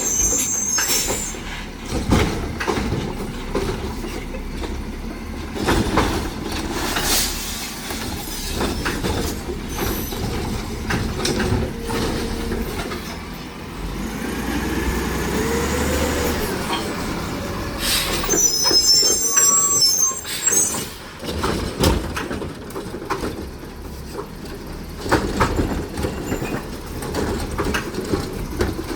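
Heil Rapid Rail automated side-loader garbage truck at work, with repeated clanks and bangs. High squeals come near the start and again about two-thirds of the way through. Around the middle the engine's pitch rises and falls.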